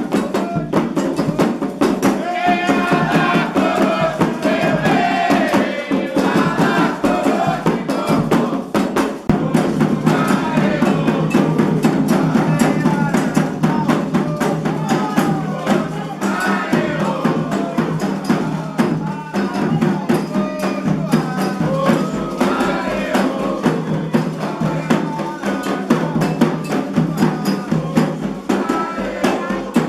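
Candomblé ritual drumming with singing: drums and a struck bell keep a dense, steady beat while voices sing a chant over it.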